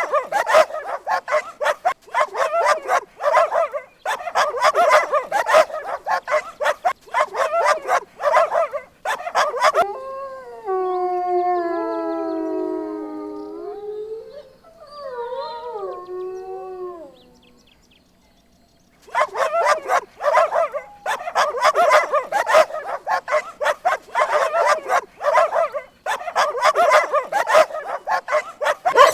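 A dog yapping in quick repeated barks. About ten seconds in it gives a long howling whine that slides down in pitch over several seconds. After a brief pause it yaps again.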